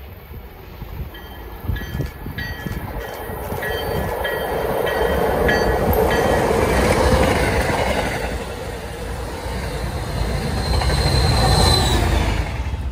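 MBTA commuter rail train, led by a diesel locomotive, approaching and passing close by. The rumble of engine and wheels builds, eases, then swells again as the locomotive draws alongside near the end. Short high-pitched tones repeat during the first few seconds.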